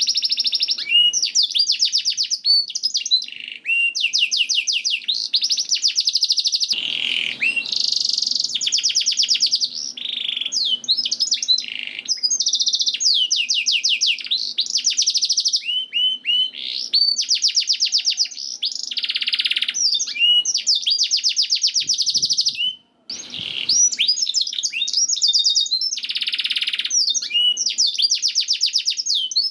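Domestic canary singing a long, continuous song of rapid trills and rolls, each made of fast repeated high notes, with a brief break about three quarters of the way through.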